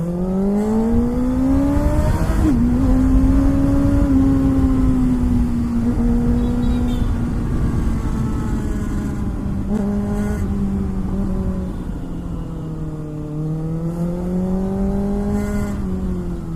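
Kawasaki ZX6R inline-four engine running while the bike is ridden. Its pitch climbs over the first couple of seconds and holds steady, eases off, rises again near the end and then drops back.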